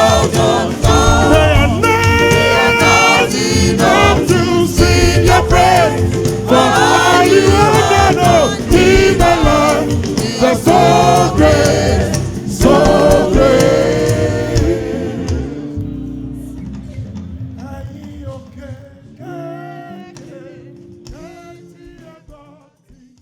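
Gospel choir singing a praise song with instrumental backing; the music fades out steadily over roughly the last eight seconds.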